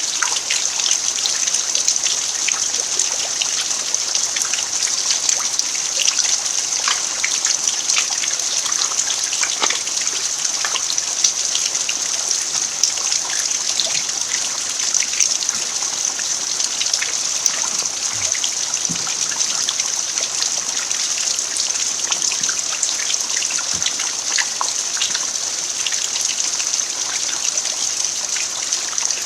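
Steady rain falling on an earthen farmyard: a constant hiss with many individual drops ticking through it.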